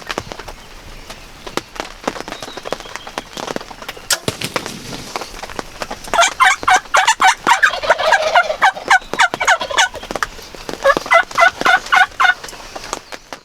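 Wild turkey gobbling: a long, rapid rattling gobble starting about six seconds in, then a shorter one near the end. Scattered raindrop ticks sound throughout.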